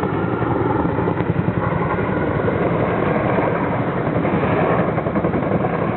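Logging helicopter's rotor and engine running steadily, a continuous low drone with rapid flutter, while it carries logs on a long line.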